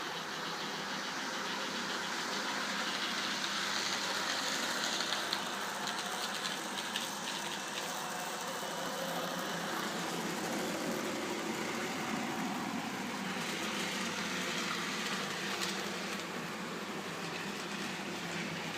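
N gauge model trains running on the layout: a steady whirr of small electric motors and wheels on track, with a run of light clicks about five to nine seconds in.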